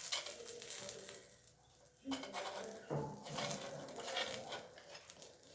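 Cooking utensils clinking and scraping against a pan while pitha cook. A brief voice-like sound comes in about two to three seconds in.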